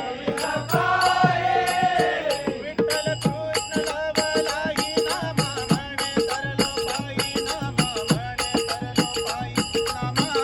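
Marathi devotional bhajan: a held sung line, then from about three seconds in an instrumental passage of small hand cymbals (taal) and a hand drum beating a fast, steady rhythm.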